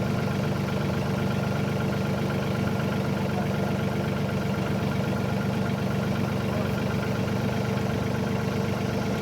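An engine idling steadily, an even low running sound that doesn't change.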